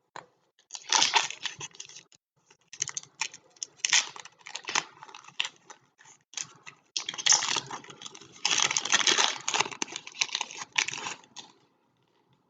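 Trading-card packs being opened and handled: wrapper crinkling and tearing and cards clicking against each other, in several bursts, the longest near the middle, stopping shortly before the end.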